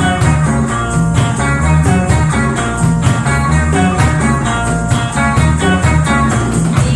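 A live band plays an instrumental passage: plucked guitar over a prominent bass line and drums keeping a steady beat.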